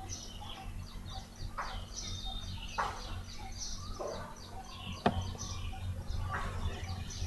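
Small birds chirping over and over in the background, over a steady low hum, with a few sharp clicks.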